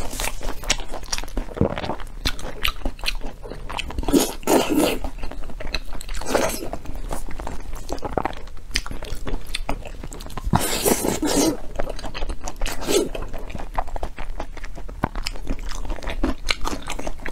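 Close-miked eating: a person biting and chewing braised meat, with many wet, sticky mouth clicks and smacks. There are louder bouts of chewing about four, six, eleven and thirteen seconds in.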